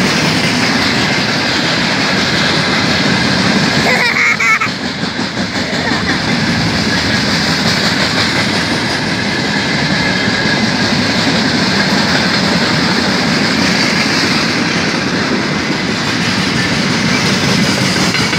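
A long freight train of hopper wagons passing close by: the steady loud noise of wagon wheels running over the rails. A brief dip in the noise, with a short high-pitched sound, comes about four seconds in.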